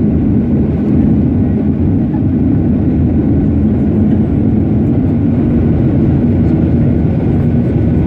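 Boeing 737-800's CFM56 jet engines and rushing air heard from inside the cabin during takeoff: a loud, steady low rumble with a faint hum.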